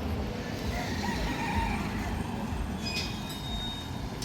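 Street traffic: a steady low rumble of passing vehicles, with a brief high squeal about three seconds in.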